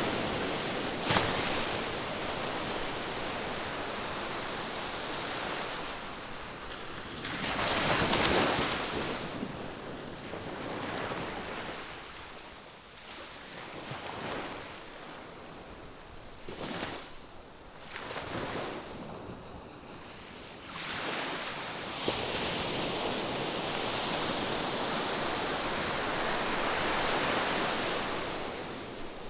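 Ocean surf breaking and washing ashore in uneven surges. One big swell comes about eight seconds in, a few short surges follow in the middle, and a longer wash starts about two-thirds through and fades near the end.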